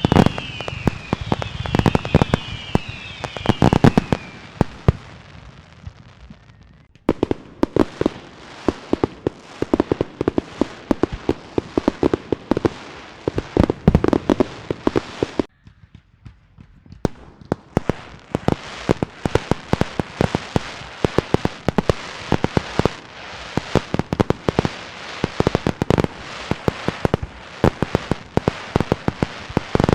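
Fireworks and firecrackers going off: dense strings of sharp bangs and crackling pops, with several short falling whistles in the first few seconds. The popping drops out briefly about seven seconds in and again for about two seconds just past halfway, then resumes.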